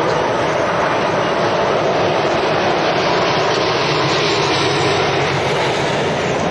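Heavy lorries driving past on the road: loud, steady engine and tyre noise.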